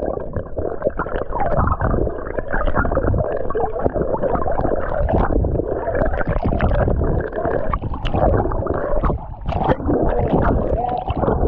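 Wind buffeting the microphone: a loud, continuous low rumble that swells and drops in irregular gusts.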